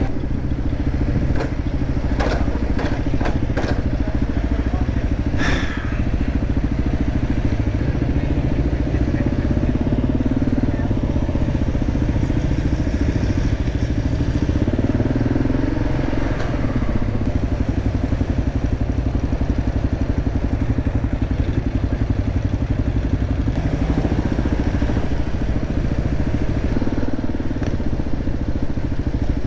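Dirt bike engine running steadily while riding, with a few sharp clicks and knocks in the first six seconds.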